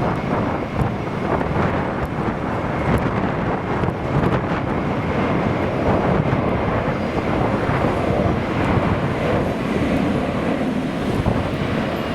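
Strong gusty wind buffeting the microphone, over the steady rumble of a jet airliner's engines.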